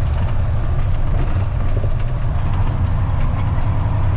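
Diesel engine of a Freightliner dump truck running with a steady low drone, heard inside the cab, with scattered light rattles and clicks.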